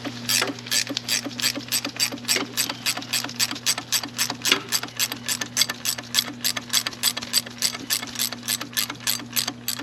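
Hand ratchet wrench clicking steadily, about four to five clicks a second, as it turns the bolt of a homemade puller drawing a seized PRNDL switch off a corroded transmission selector shaft. A steady low hum runs underneath.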